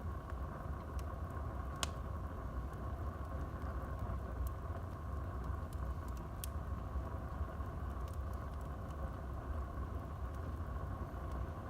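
Wood fire burning in a fireplace: a steady low rush of flames with scattered sharp crackles and pops from the burning wood, one louder pop about two seconds in.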